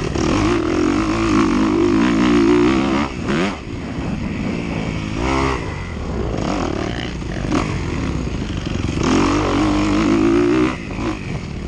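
Dirt bike engine revving up and dropping back again and again as the throttle is worked while racing over rough ground, with a brief lull a few times when the throttle is chopped.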